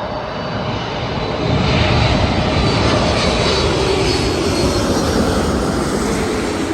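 Korean Air Boeing 747-8's four GEnx turbofan engines as the jumbo jet passes low overhead on landing approach. The jet noise grows louder about a second and a half in and holds, with a faint whine sliding slowly down in pitch.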